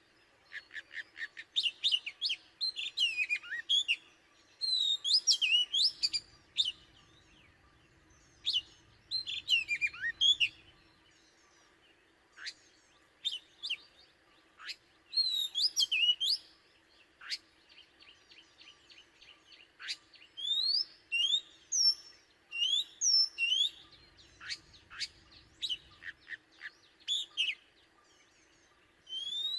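Oriental magpie-robin singing: phrases of sharp whistled notes and quick rising sweeps, in bursts with short pauses between them.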